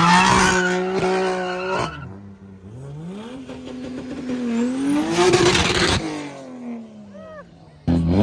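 Car engine revving: it climbs and holds high, then cuts off about two seconds in. An engine then builds again to a peak, with a harsh noisy burst around five seconds in, before falling away. Another rev starts abruptly near the end.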